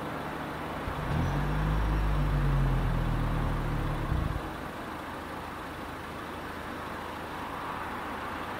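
Toyota Camry hybrid's 2.5-litre four-cylinder engine starts abruptly about a second in with the car at a standstill. It runs at a steady low idle for about three seconds, then shuts off. Steady traffic noise hisses throughout.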